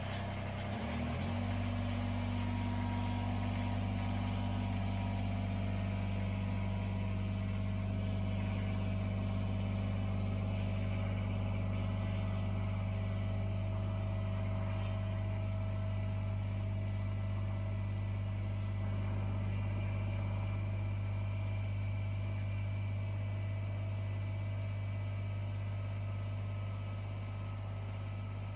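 Engine running steadily at an even speed, settling after a short change in pitch about a second in.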